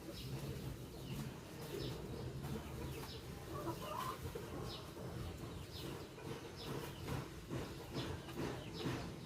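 Faint bird calls: short, sharp calls repeated every second or so over a low background rumble.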